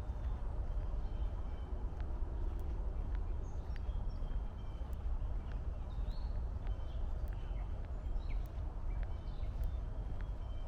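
Footsteps on a woodland trail over a steady low rumble of distant highway traffic, with faint short bird chirps scattered throughout.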